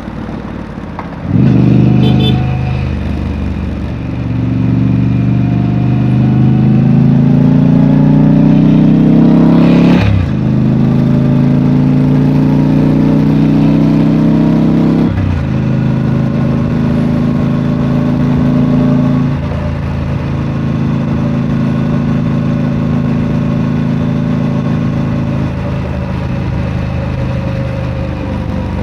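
Triumph Street Scrambler's 900 cc parallel-twin engine through its stock exhaust, accelerating hard from about a second in. The pitch climbs and drops sharply twice with upshifts, then settles into steady cruising.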